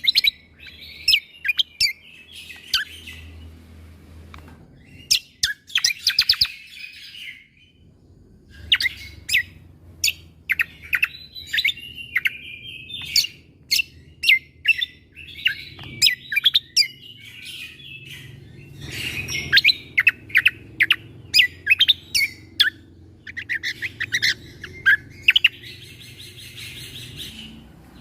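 Cucak kombo (kecial kombok) songbird singing a fast, loud song of sharp, whip-like 'shot' notes (tembakan) strung together with rapid chattering trills, with a brief pause about seven seconds in.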